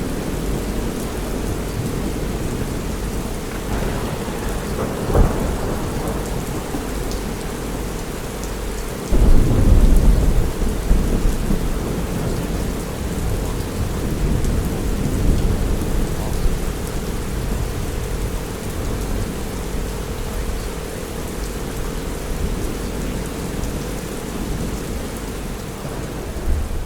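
Steady rain with thunder: a loud rumble of thunder starts about nine seconds in and lasts a couple of seconds, with a shorter one around five seconds in. A steady low tone runs underneath.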